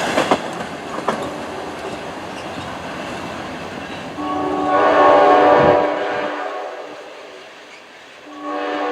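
A passing train's wheels clatter on the rails and fade, then a diesel locomotive's air horn sounds about four seconds in: one long chord that dies away, with a second blast starting near the end.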